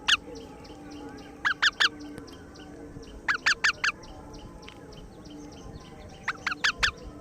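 Baby ring-necked parakeet calling in quick runs of short, sharp, high squawks: three bursts of three to five calls each, the first about a second and a half in and the last near the end.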